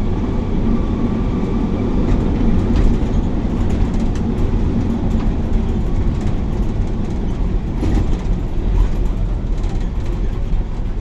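Inside a moving bus: a steady low rumble of the diesel engine and road, with a few faint rattling clicks.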